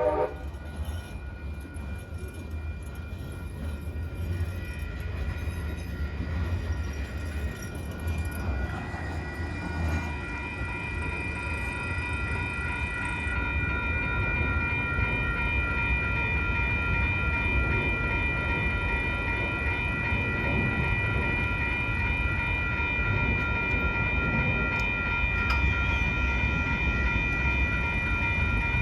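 A train passing through a grade crossing, a low rumble of rolling cars under a steady high ringing from the crossing warning bells; a train horn blast cuts off right at the start.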